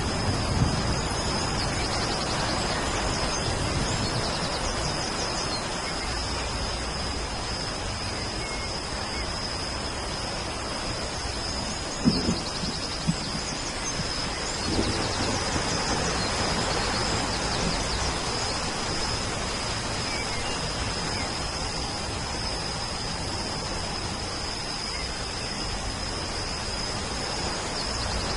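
Steady rain with a continuous high insect trill over it and a few faint bird chirps. A low thunder rumble dies away at the very start, and a couple of short low thumps come about twelve seconds in.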